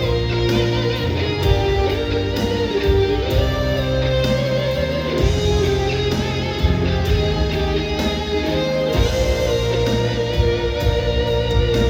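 Instrumental passage of a pop-rock song played by a band, with no vocals. A lead guitar line carries long held notes with vibrato over a moving bass line and drums with cymbal hits.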